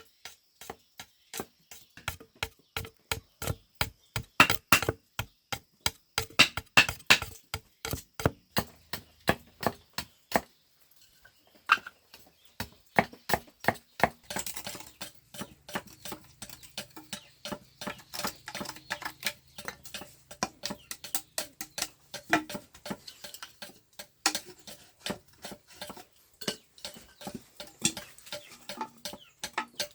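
Rapid, repeated striking of a tool on wood, several sharp knocks a second, with a short pause about ten seconds in.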